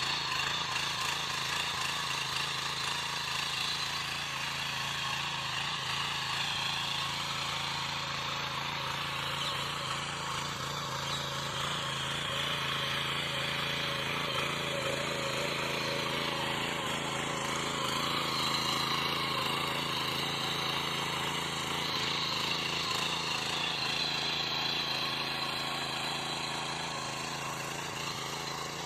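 Small engine of a power weeder (mini tiller) running steadily.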